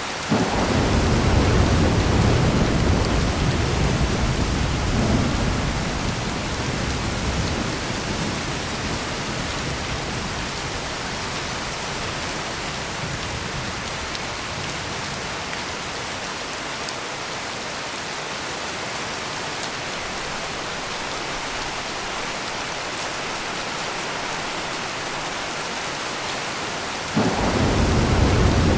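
Heavy rain falling steadily with an even hiss. A low thunder rumble starts suddenly just after the start and rolls away over about six seconds, and another peal of thunder breaks in suddenly near the end.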